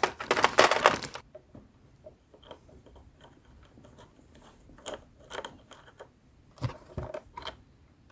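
Small plastic and metal RC truck wheels and parts handled during a wheel swap: a loud clattering rattle in the first second, then scattered light clicks and knocks.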